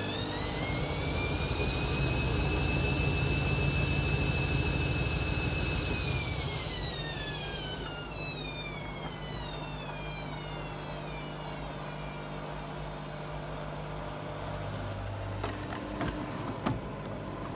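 Hoover washing machine's motor whining as the drum spins up, holds at speed for a few seconds, then winds down with a long falling whine: the spin is cut short by a suds lock, too much foam in the drum. A few sharp clicks near the end.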